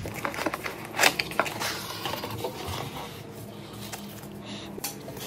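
A smart scale's box and packaging being opened and handled: a run of clicks, scrapes and rustles for the first few seconds, then quieter handling.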